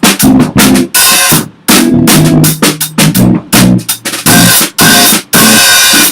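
A small rock band playing loudly: a drum kit with frequent hits and cymbal crashes over bass and electric guitar notes.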